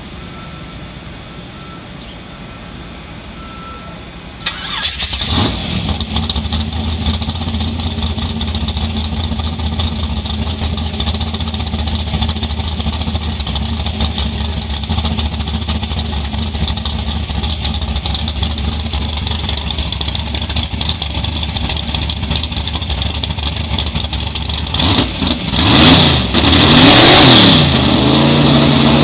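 A Chevy drag-racing truck's engine starts abruptly about four seconds in and settles into a loud, steady idle. Near the end it is revved several times, each rev rising and falling.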